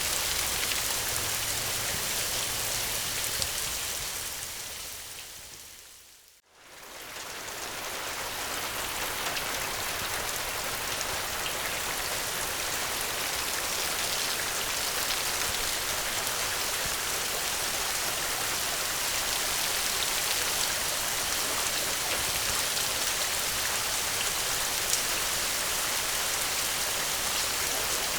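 Steady rain. It fades down to near silence about six seconds in, then swells back up within a couple of seconds and continues evenly.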